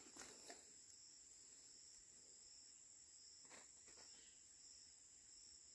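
Faint, steady, high-pitched insect chirring, with a few soft clicks.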